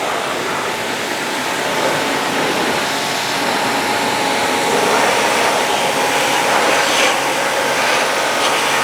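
Electric high-pressure washer running steadily, its water jet spraying hard onto a car with a faint steady whine under the hiss, blasting dust out of the body's gaps.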